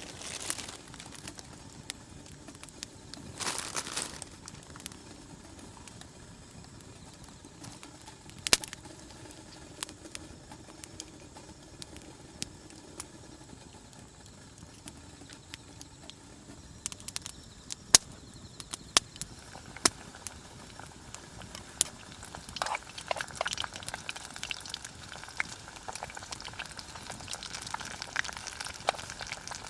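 Wood campfire crackling with scattered sharp pops. Near the end a denser sizzle builds, as of hot oil frying over the fire.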